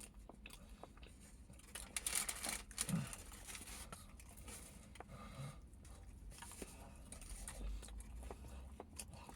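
Paper wrapper crinkling and tearing in irregular short rustles, loudest about two to three seconds in.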